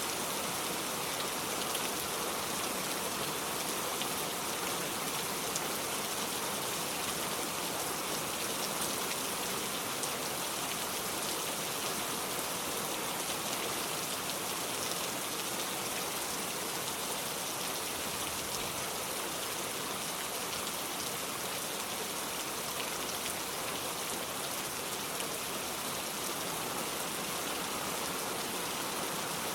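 Steady rain falling, an even hiss of many drops with faint tiny drop ticks throughout.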